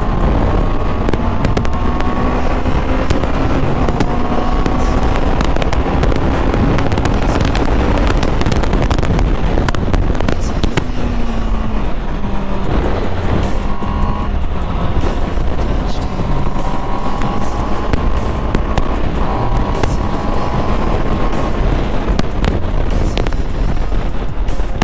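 Honda CB650R's 650 cc inline-four engine pulling hard on the open road, its pitch climbing slowly and dropping back at a gear change partway through. Heavy wind rush underneath.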